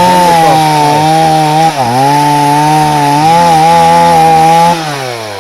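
Two-stroke chainsaw running at high revs, cutting through jatobá wood. The note dips briefly about two seconds in, then the revs fall away toward idle near the end.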